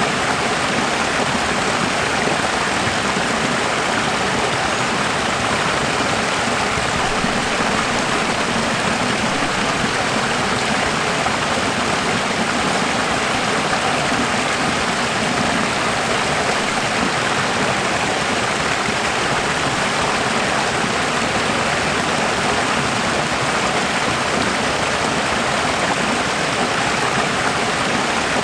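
Running water, a steady, even rush like a flowing stream, with no change in level.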